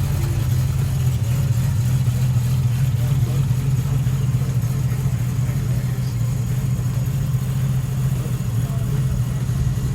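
A car engine idling steadily, with a strong, even low-pitched note.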